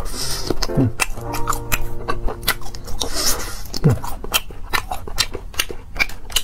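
Close-up biting and chewing of a long latiao, a chewy spicy gluten strip: a dense run of small clicks and mouth smacks, over soft background music.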